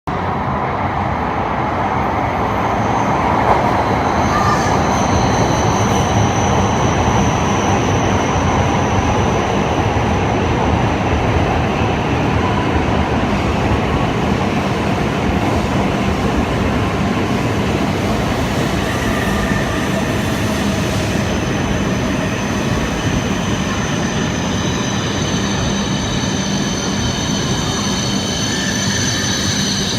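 Tohoku Shinkansen train running at a platform: a steady, loud rumble of the train with a thin high whine over it that fades and returns.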